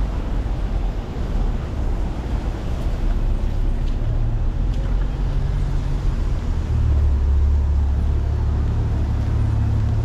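City road traffic, with a heavy vehicle's engine rumbling close by, its low hum growing stronger from about halfway through.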